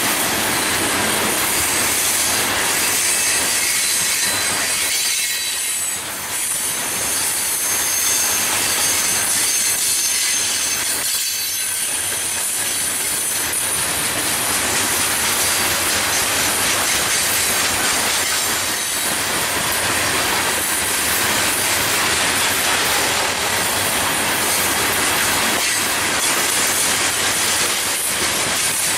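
Freight cars of a Florida East Coast Railway train rolling steadily past: continuous rumble and clatter of steel wheels on the rails, with a thin high squeal of wheels against rail at times.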